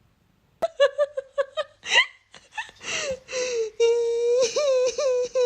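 A high-pitched voice, human or animal: a quick run of short laugh-like yelps, a rising squeal, then a long wavering whine.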